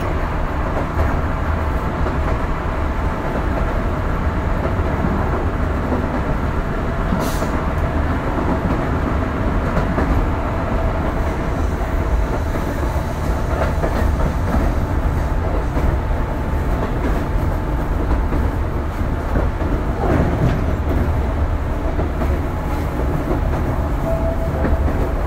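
Interior running sound of a Tobu 8000 series electric train car under way: a steady rumble of wheels on rail with a faint steady hum over it. A brief sharp tick sounds about seven seconds in.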